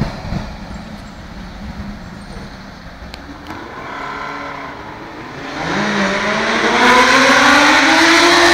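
Suzuki GSX-R 1000 K3's inline-four engine running without an exhaust: faint at first, then from about five and a half seconds in it gets loud, its note climbing steadily in pitch.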